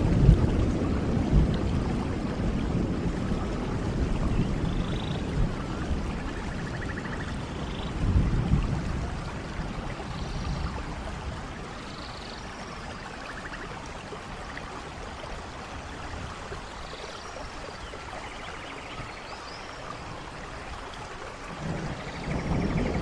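Steady rain falling, with low thunder rumbling at the start, again about eight seconds in, and building near the end. A few faint, short high chirps sound now and then over the rain.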